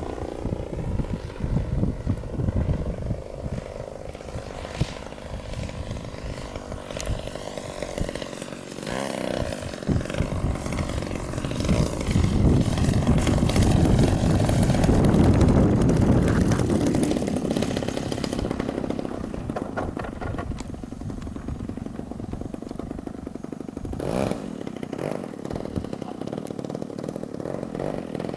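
Model airplane engine running, buzzing steadily, swelling to its loudest about halfway through and fading again, as from the plane passing close.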